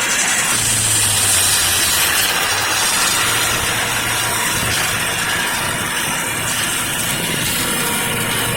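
Engine of working machinery running steadily under a broad, even hiss.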